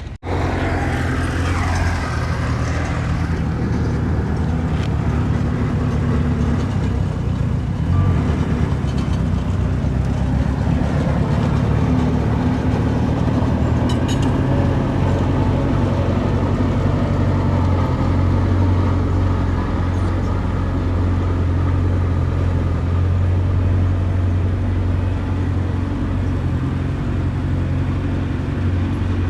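Diesel engine of earthmoving machinery, a bulldozer or dump truck, running steadily with a deep, even hum.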